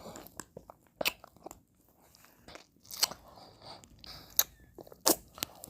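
Close-miked mouth sounds of eating ice cream: wet licking and chewing, broken by sharp lip smacks and clicks, four of them louder than the rest.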